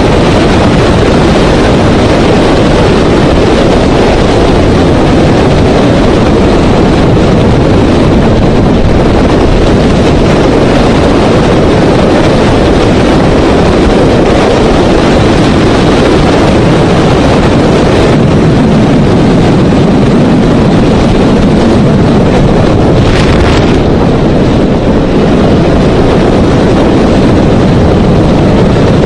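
Steady, loud rumble of a moving vehicle with wind noise, with no distinct impacts. A brief hiss comes in about 23 seconds in.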